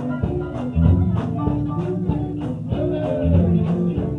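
Live up-tempo gospel band music with bass, guitar and drum kit, the drums keeping a steady beat.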